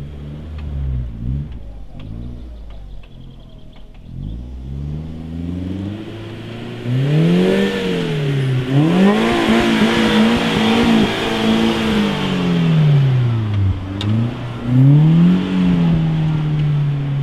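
Suzuki 4x4's engine revving up and down again and again as it crawls over an off-road trial obstacle, its pitch rising and falling with the throttle. It is quieter in the first few seconds and much louder from about seven seconds in.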